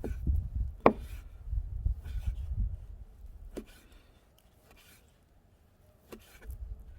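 Knife work on a cutting board while a boiled ox tongue is cut and skinned: a few sharp knocks, the loudest about a second in, with low thuds, then a quieter stretch and another knock near the end.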